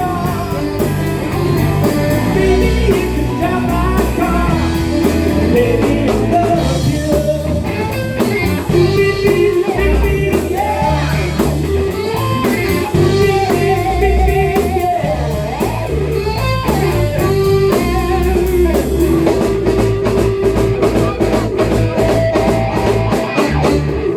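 Band playing blues-rock with electric guitar, drum kit, bass and singing, stopping abruptly on the final note at the end.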